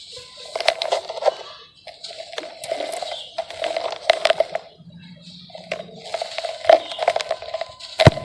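Dry sand-cement chunks being crumbled, in repeated bursts of gritty crackling and small cracks with short pauses between them. A sharp crack comes near the end.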